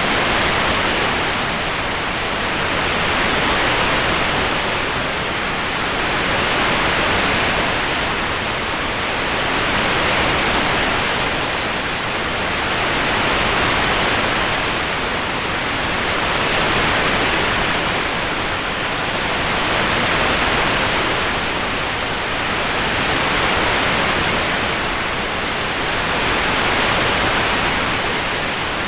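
Rain-sound ambience: a steady hiss of noise with no separate drops or clicks, swelling and fading gently about every three seconds.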